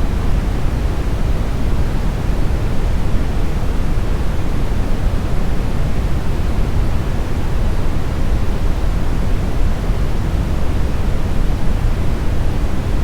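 Synthetic brown noise, smoothed: a steady, unbroken deep rushing hiss, strongest in the low end and dull in the highs.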